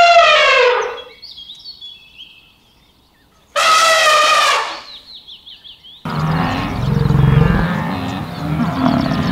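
An elephant trumpeting: a long high call that falls in pitch as it ends, then a second, shorter call about three and a half seconds in. About six seconds in, a busier mix of lower outdoor and animal sounds takes over.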